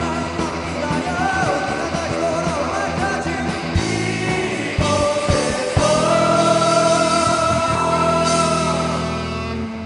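Live band music with a singer. About halfway through, a few sharp drum hits lead into a long held sung note over a sustained chord, which fades near the end as the song closes.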